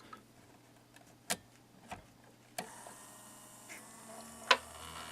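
A few scattered clicks, then about halfway in the electric waterfall's motor starts a steady buzzing hum with many tones, growing louder toward the end. The motor smells of burning after two hours of running, a sign of overheating.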